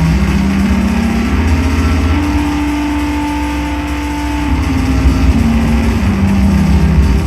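Live psychedelic drone noise music: a loud, dense low rumble under a wash of hiss, with sustained tones that shift in pitch every second or two, one holding higher in the middle.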